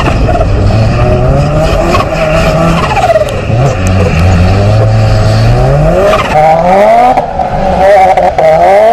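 Turbocharged Toyota GT86's flat-four boxer engine revving up and down repeatedly during a snow drift, over steady tyre noise. The engine pitch climbs and drops several times, with long climbs around the middle and quicker ones near the end.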